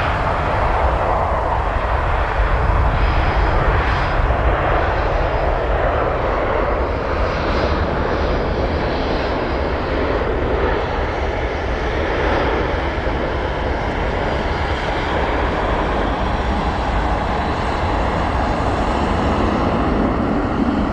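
A jet airliner's engines during a landing: a loud, steady rush of jet noise over a deep rumble, lasting the whole stretch.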